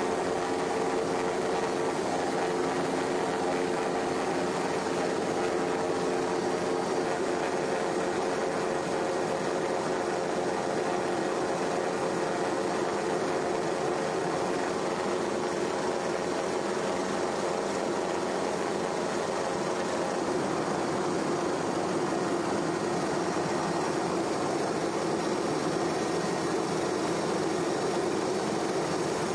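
A steady mechanical drone at an even level, with a few held low tones. The highest of these tones fades about two-thirds of the way through.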